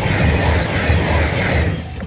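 Express train passing at speed close alongside, its wheels beating on the rails; the noise falls away near the end as the last car goes by.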